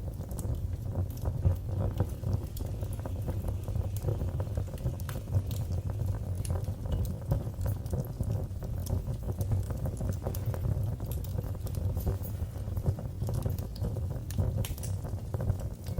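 Wood fire burning in a fireplace: a steady low rumble of flames under constant irregular crackles and sharp pops.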